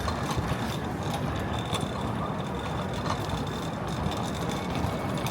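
Steady outdoor city street noise with a low rumble.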